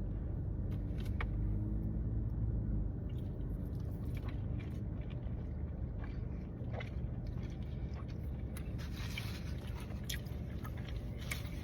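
A person chewing a mouthful of sushi, with soft wet mouth clicks scattered throughout, over a steady low rumble.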